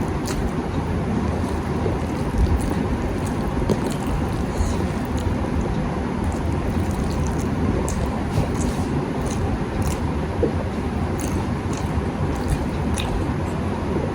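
A steady low rumbling noise runs throughout, with scattered small clicks and smacks of a person eating rice and egg curry.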